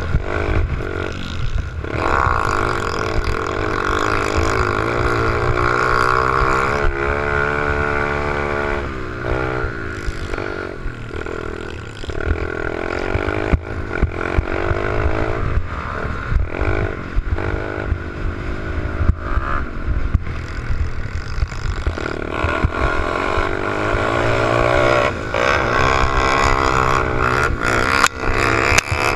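88cc pit bike engine running hard, its pitch rising and falling with the throttle, with rattling knocks over the top.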